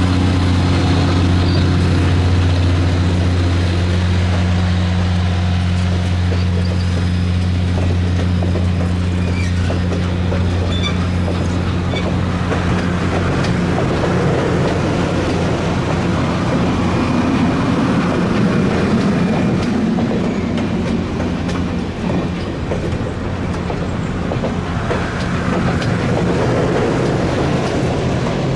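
Passenger coaches of a steam excursion train rolling past on a curve: steady wheel-on-rail rumble with a loud low hum that fades about halfway through, leaving clattering wheel noise and faint wheel squeal.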